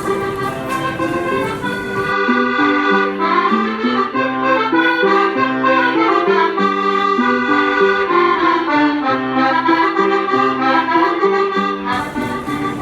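Accordion playing a melody of quickly changing notes over sustained chords.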